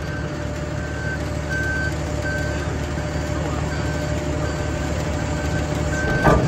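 Lift truck's engine running steadily while a warning alarm beeps at an even rate, about one and a half beeps a second, with a sharp knock near the end.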